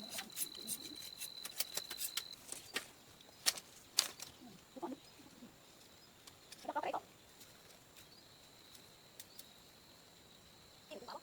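A few short animal calls among scattered light clicks and taps, over a faint steady high-pitched tone.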